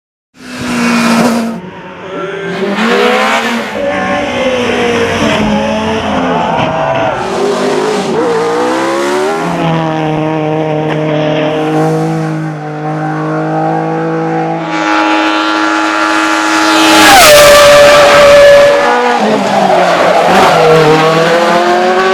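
Suzuki GSX-R1000 inline-four motorcycle engine in a Speads RM06 hillclimb race car at high revs, pitch climbing and dropping again and again through quick gear changes and lifts. The engine is loudest as it passes close in the second half.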